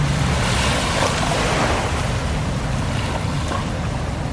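Wind rushing over the microphone of a moving motorbike, a steady noise, with the bike's engine running low underneath.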